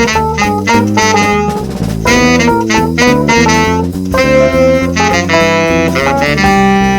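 Jazz played on saxophone, the melody moving over a bass line and drums.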